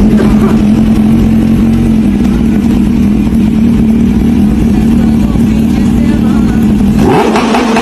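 Motorcycle exhaust note with the engine held at steady high revs, then revs climbing near the end.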